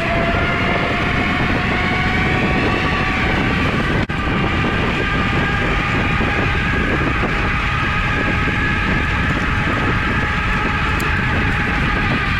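Riding a 2018 RadRover e-bike: a steady whine from its geared rear hub motor, rising slightly in pitch over the first few seconds, over wind and tyre rumble. The sound drops out for an instant about four seconds in.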